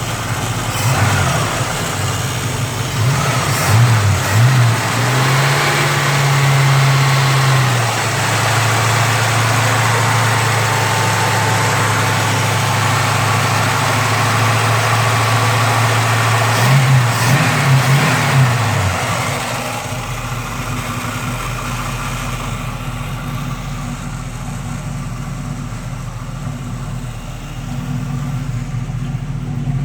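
Chevrolet El Camino engine running: revved in quick blips, held at raised revs for several seconds, blipped again, then dropping back to a steady idle about twenty seconds in.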